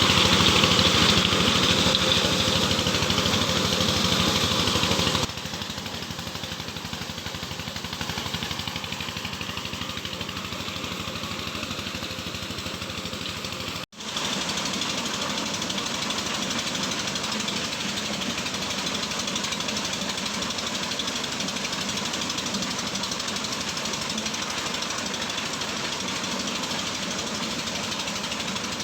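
Engine-driven corn sheller running, its motor and threshing drum making a continuous mechanical din. It is louder and harsher for the first five seconds or so, then settles to a steadier, lower level.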